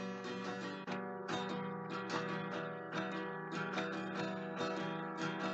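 Background music: acoustic guitar strumming at a moderate level, in repeated chords.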